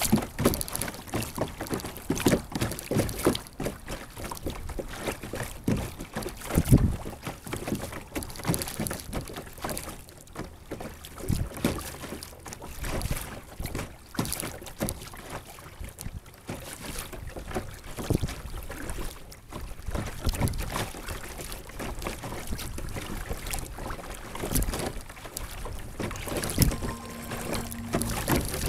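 Sit-on-top kayak being paddled: water splashing and sloshing against the hull, with irregular knocks and taps from the paddle and hull, one of them sharply louder about seven seconds in.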